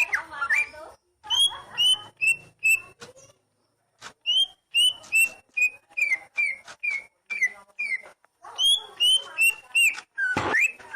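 Oriental magpie-robin (kacer) singing: a rapid run of short, clear whistled notes mixed with high squeaky notes, broken by a pause of about a second early on, with a louder sweeping call near the end.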